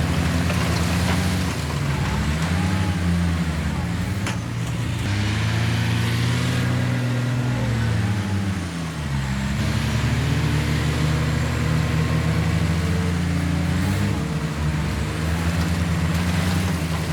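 Heavy diesel engine of an earthmoving machine working under load, its revs rising and falling again and again.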